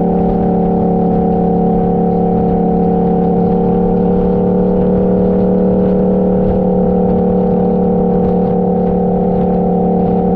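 Motorcycle engine running steadily while riding, its pitch holding level.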